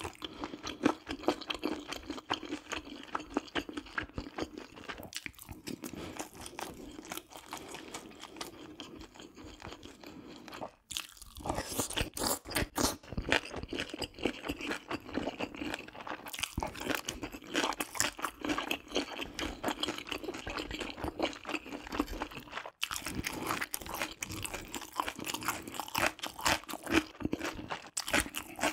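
Close-miked chewing and wet mouth sounds of a person eating spicy stir-fried baby octopus and beef large intestine, a dense run of quick clicks and squelches.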